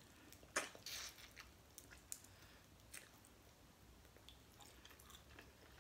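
Faint sound of biting into a crispy oven-baked chicken wing: a crunch of the crisp skin about half a second in, then quiet chewing with small crackles.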